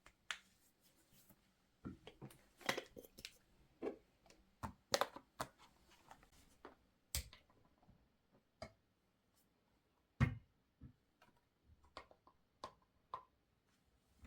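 Irregular light clicks and taps of small objects being handled, with a louder knock about ten seconds in.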